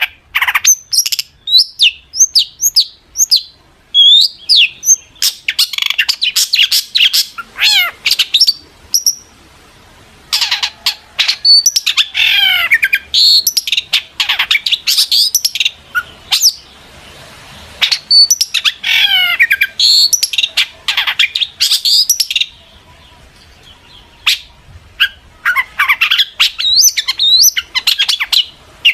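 Long-tailed shrike singing a fast, varied run of sharp chirps, whistled glides and harsh scratchy phrases, with a short pause about three-quarters of the way through.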